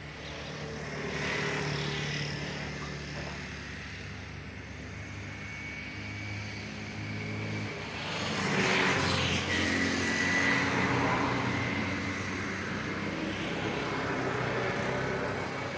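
Motor vehicle engines on a road: a steady engine hum, with one vehicle passing about a second in and a louder one passing from about eight to eleven seconds in.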